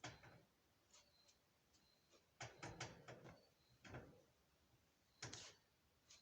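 Near silence broken by a handful of faint knocks and rubs, several of them bunched together around the middle, with no buffer running.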